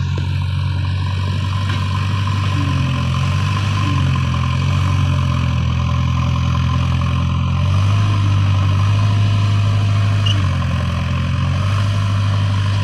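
Heavy diesel engine of earth-moving machinery running steadily. Its note shifts slightly up and down a few times as the revs change.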